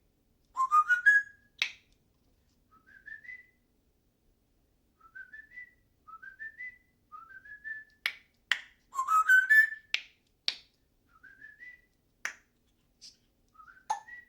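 Pet parrot whistling: a string of short upward-sliding whistles, about one a second, with two louder runs of quick rising whistles about a second in and about nine seconds in. Sharp clicks are scattered among them.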